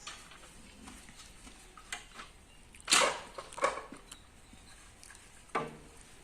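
Kitchen items being handled, clattering and clinking in a few separate knocks, the loudest cluster about three seconds in and another near the end.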